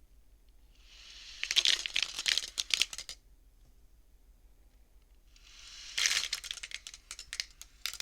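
Beads on a bead abacus toy pushed along their rods twice: each time a rising sliding swish, then a quick run of clacks as the beads knock together and stop.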